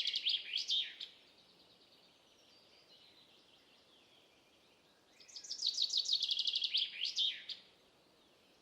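A songbird singing two phrases, each a rapid trill of sharp down-slurred notes ending in a few longer slurred notes. The first phrase finishes about a second in; the second starts about five seconds in and stops shortly before the end.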